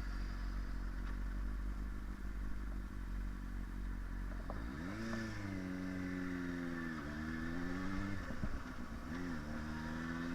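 Yamaha sportbike engine under way on the road: about halfway through, the revs climb sharply, then ease off, dip and climb again twice. Wind rumble runs underneath.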